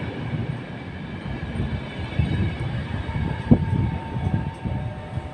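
Passenger train carriages rolling past as the train pulls out, wheels rumbling and knocking over the rail joints, with one sharp knock about three and a half seconds in.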